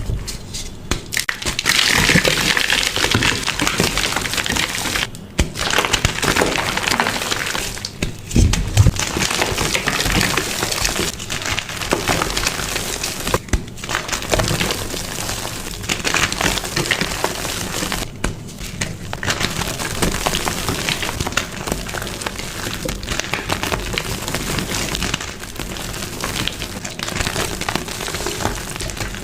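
Blocks of dyed gym chalk being crushed, a dense crackling and crumbling with short pauses every few seconds.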